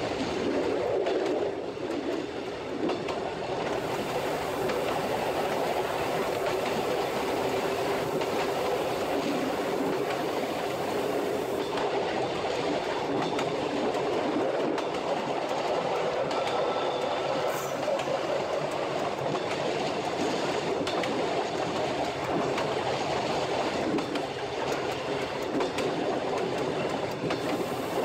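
Narrow-gauge rack railway train running steadily along the line, heard from the cab: a continuous rumble of the running gear, with wheels rattling over the rails.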